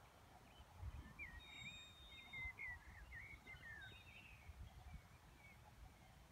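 A songbird singing a quick, warbling, chirping phrase for about four seconds, faint over a low, uneven rumble. No aircraft engine is heard.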